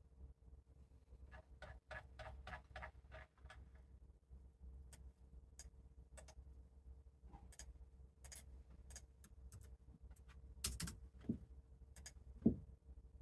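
Light clicks and taps: a quick run of about eight clicks a couple of seconds in, then scattered single clicks, and three louder knocks near the end, over a faint steady hum.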